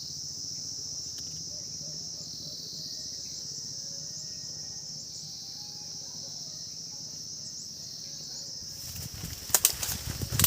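Steady high-pitched drone of insects. From about nine seconds in, loud crackling and rustling of leaves and branches being handled, as fruit is picked from the guava tree.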